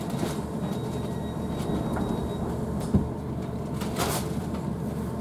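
Cabin noise inside a Class 156 diesel multiple unit: a steady low rumble, with a sharp knock about three seconds in and a short hiss about a second later.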